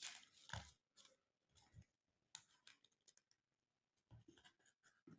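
Faint rustling and light tapping of folded colour paper being handled while an elastic band is fitted onto it, in short irregular bursts.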